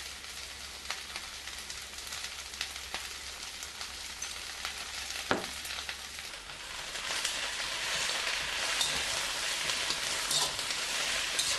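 Chinese cabbage sizzling in a hot oiled wok, with a few light ticks. About halfway through the sizzle grows louder as the cabbage is stirred and tossed with a slotted spatula.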